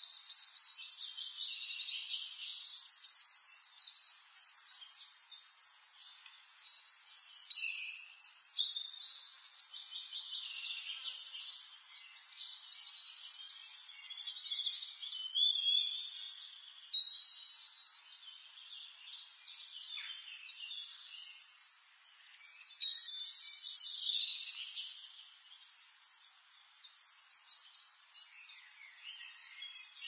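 Songbirds singing high-pitched phrases with rapid trills. The louder bursts of song come every several seconds, over a faint background hiss.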